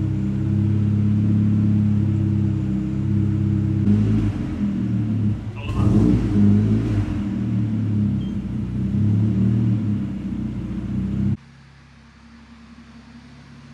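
Volkswagen Golf Mk4 turbocharged 1.8T engine running on a chassis dyno at a steady speed, with a rougher, noisier stretch about five to seven seconds in. The exhaust is smoking, which the owner puts down to an unhappy turbo. The engine cuts off suddenly about eleven seconds in, leaving a faint low hum.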